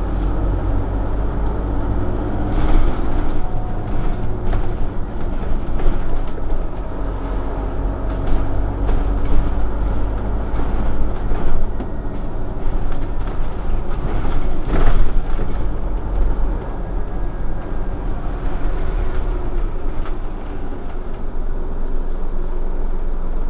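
Scania OmniCity single-deck bus heard from inside the saloon while under way: a steady diesel engine drone and road rumble, with rattles and knocks from the body and fittings, the sharpest about fifteen seconds in.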